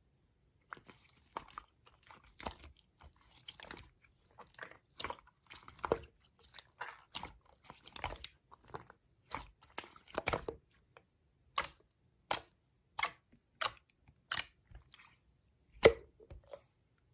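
Slime being squished and poked by hand, giving a stream of small wet clicks and pops. From about two-thirds of the way in, louder, sharper pops come at an even pace, roughly one every 0.7 seconds.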